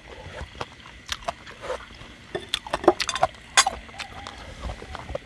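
A person eating: close mouth sounds of chewing and lip smacking, a string of irregular wet clicks that grows busier about halfway through.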